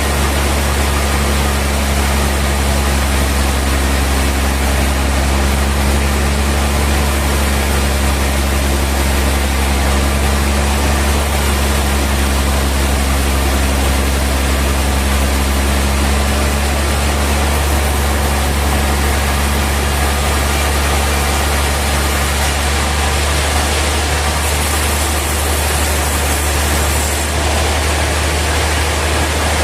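Sawmill machinery running steadily: a deep, constant hum with a few steady tones over an even wash of noise, unchanging throughout.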